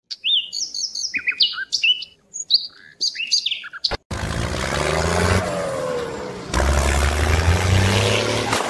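Small birds chirping in quick, varied, rising and falling calls, which cut off abruptly about four seconds in. After the cut comes a steady noisy rumble with a low hum, which shifts once about two and a half seconds later.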